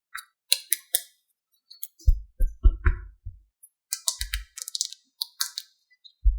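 Hard plastic toys being handled: a run of sharp clicks and clatters, with a cluster of dull knocks around the middle and another just before the end.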